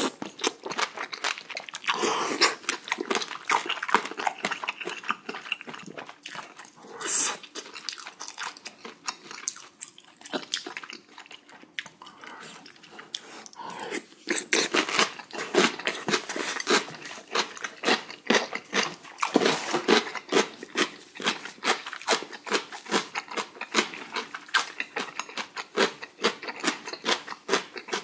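Close-miked eating sounds: a person takes spoonfuls of spicy beef-intestine hot pot with rice and chews with wet smacking clicks, several a second, busiest in the second half.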